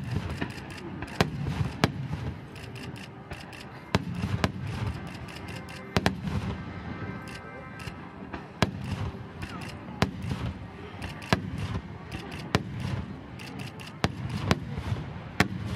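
Star mine fireworks barrage: shells launching and bursting in quick succession. Loud bangs come roughly every second, with quicker crackling between them over a steady low rumble.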